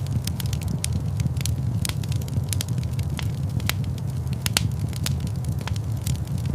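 Fire burning in a large stone fireplace: many sharp, irregular crackles and pops over a steady low rumble of the flames.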